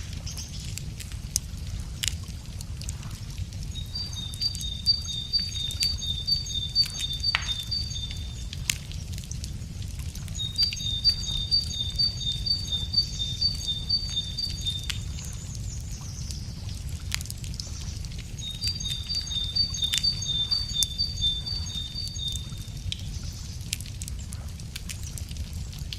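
Wood fire crackling with frequent sharp pops over a steady low rumble. A songbird sings three phrases, each about four seconds long, of evenly repeated high notes.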